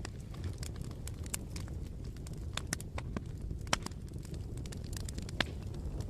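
Bonfire burning: wood crackling with irregular sharp pops over a steady low rumble, with a louder snap a little past the middle and another near the end.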